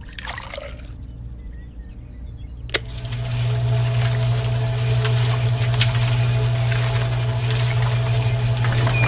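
Water trickles briefly into a miniature concrete mixer's drum, then a click nearly three seconds in and its small electric motor starts, turning the drum with a steady hum over the gritty churn of wet cement mix.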